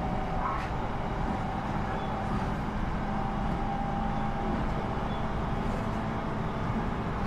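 Inside an electric commuter train's passenger car while it runs between stations: a steady rumble of wheels on rail and car noise, with faint steady hum tones from the running gear.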